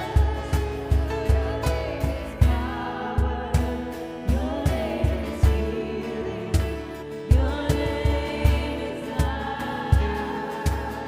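Church worship music: a steady kick-drum beat, about two hits a second, under sustained keyboard chords and singing.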